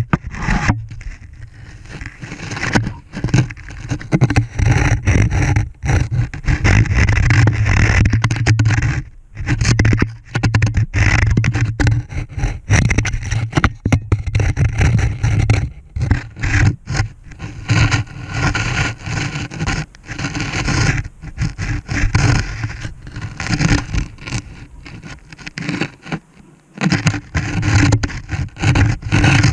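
A camera being lowered down a drilled borehole, scraping and knocking irregularly against the rock walls of the hole, over a low hum that drops out briefly near the end.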